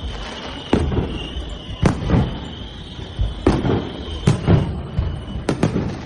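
Fireworks bursting: a series of sharp booms, two of them in quick succession near the end. Each boom is followed by a low rolling rumble, and a thin steady high tone sits underneath.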